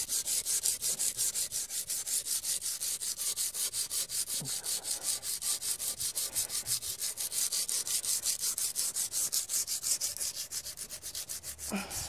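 Hand sanding of an alloy wheel rim with P120 sandpaper: fast, even back-and-forth scrubbing strokes, several a second, that stop at the very end. The coarse paper is roughing up the rim edge to strip leftover lacquer and paint.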